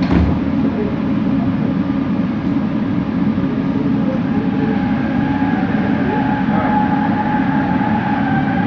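Interior running noise of a Bombardier Innovia ART 200 metro train on the move: a steady rumble, with a whining tone from its linear induction motors that grows clearer about halfway through. This is the unusual motor noise this train set is noted for. A low thump sounds right at the start.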